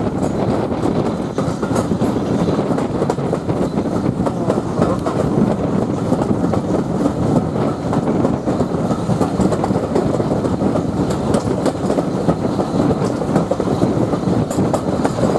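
Coaches of a steam-hauled train running along the line, heard from an open carriage window: a steady rumble of wheels on rail with rhythmic clattering over the track.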